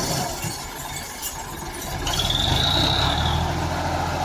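Ford 3610 tractor's three-cylinder diesel engine running, growing louder about halfway through. A high squeal rises and falls for about a second and a half over the engine.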